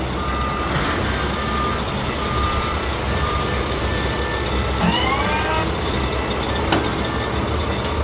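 Sound effects for a cartoon wheel loader: a steady engine rumble with a row of short, evenly spaced reversing beeps, and a hiss of dirt pouring from its bucket into a dump truck bed until about four seconds in. About five seconds in comes a rising whine, and near seven seconds a sharp click.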